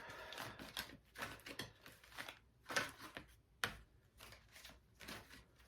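Tarot cards being handled: a quiet run of short, irregular rustles and flicks of card stock.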